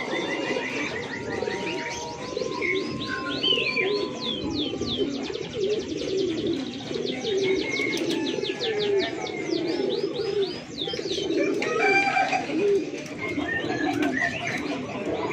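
Many domestic pigeons cooing together, with small birds giving long runs of fast, repeated high chirps over them.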